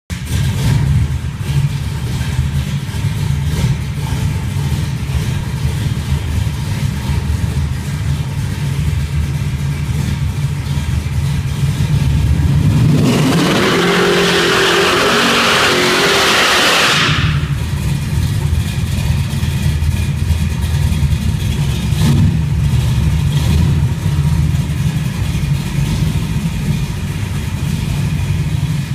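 Big-block V8 of a Chevrolet Malibu running steadily with a low rumble. About halfway through, a loud burst of rushing noise lasts about four seconds, then the steady engine sound returns.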